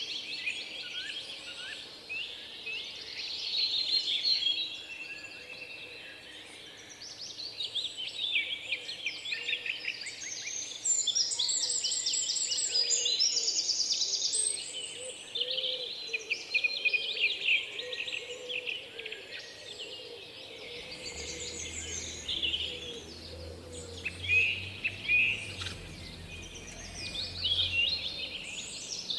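Several small songbirds chirping and singing over one another. A fast, high trill stands out for about three seconds near the middle, and a low steady hum comes in during the last third.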